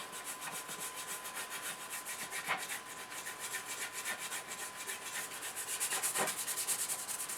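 Brisk, rhythmic scrubbing, several strokes a second, as grime is scrubbed off small metal parts of a model car chassis.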